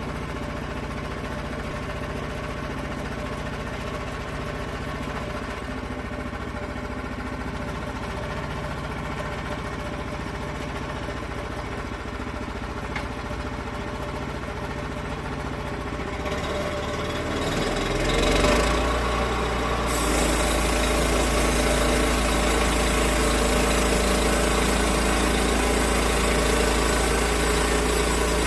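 Sawmill engine running steadily at low speed, then throttling up between about 17 and 20 seconds in and running on steadily at higher speed.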